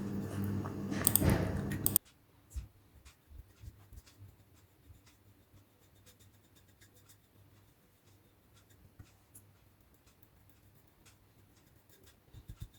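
Scratchy brush strokes of sealer being applied to wooden puzzle pieces. They stop abruptly about two seconds in, leaving near silence with a few faint taps.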